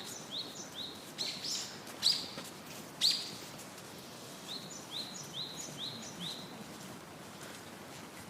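Birds calling: runs of short rising chirps, two or three a second, with three louder downward-sweeping calls in the first three seconds.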